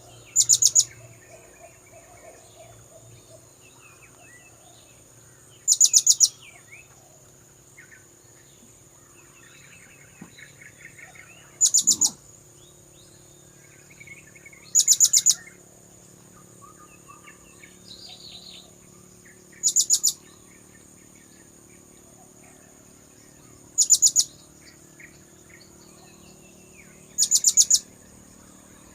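Blue-crowned hanging parrot (serindit) lure call: seven short bursts of rapid, very high chirps, repeated every few seconds. Fainter calls of other birds come between the bursts, over a thin steady high whine.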